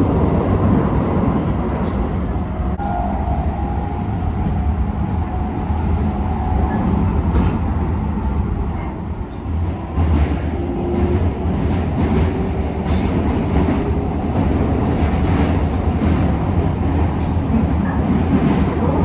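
Running noise of a Keisei 3000 series commuter train heard from inside the car: a steady low rumble of wheels on the track, with scattered light clicks and a few brief faint tones.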